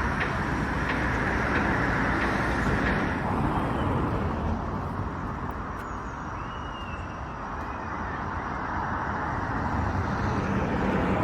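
Road traffic going by, a steady rumble of engines and tyres that eases about three seconds in.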